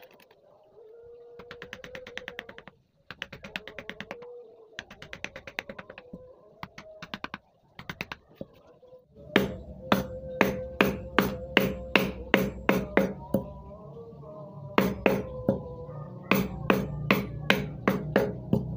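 Carving chisel being tapped into wood with a mallet: runs of fast, light taps in the first half, then louder, evenly spaced strikes about three a second from about halfway.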